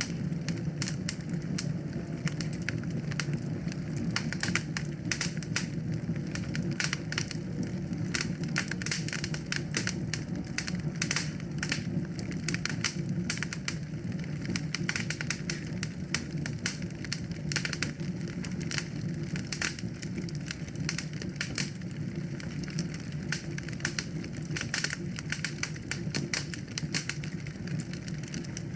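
Wood fire burning in a fireplace, crackling and popping with many irregular sharp snaps over a steady low rush of flame.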